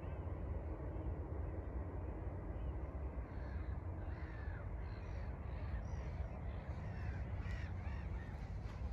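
A flock of birds calling: many short calls overlapping, several a second, starting about three seconds in, over a steady low rumble.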